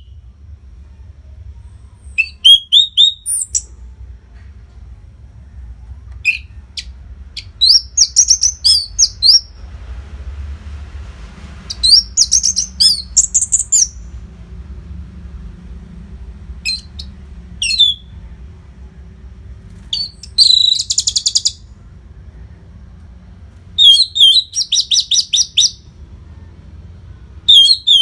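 Orange-headed thrush (anis merah) singing in short bursts of rapid, varied high notes a second or two long, separated by pauses of a few seconds, over a faint low hum.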